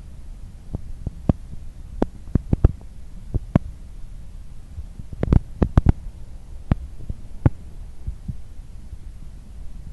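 Passenger train running at speed: a steady low rumble with irregular sharp knocks of the wheels over the track, including a quick cluster of knocks about five seconds in.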